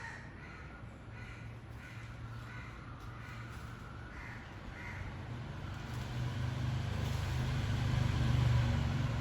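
A bird gives a run of short, harsh cawing calls, about two a second, which stop about five seconds in. A vehicle's low engine rumble then swells in and is loudest near the end.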